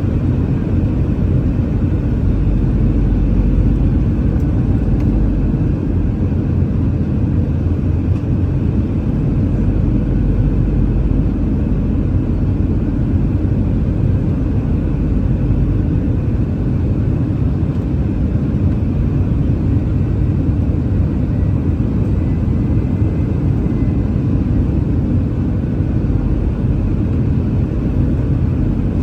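Steady cabin noise of an Airbus A319 airliner in flight: a loud, even rumble of engines and airflow with a few faint steady tones above it.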